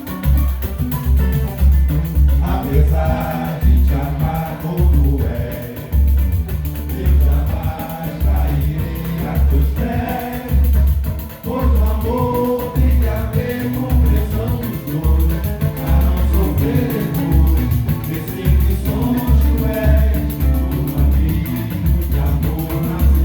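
Live samba: acoustic guitar, mandolin and hand percussion, with a low drum beating steadily, and voices singing from a few seconds in.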